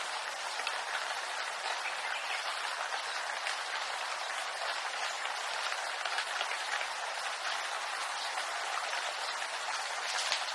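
Steady rain falling in a bamboo grove: an even, dense patter of drops on leaves and stems.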